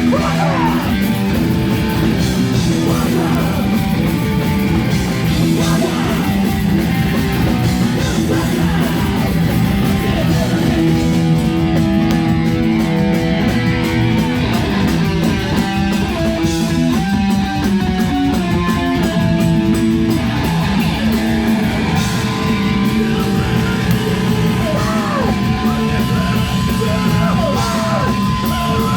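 A live heavy rock band playing loud: distorted guitars and pounding drums, with yelled vocals.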